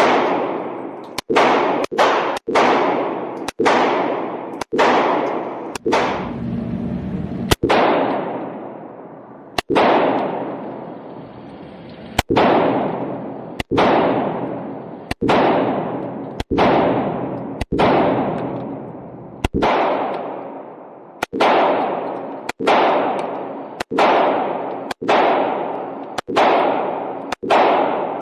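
Glock pistol firing about two dozen shots at an uneven pace, each crack followed by a long echo in the indoor range.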